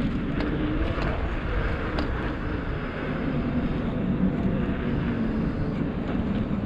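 Steady wind rush on the microphone and road noise from an electric bike riding along, with a faint low hum.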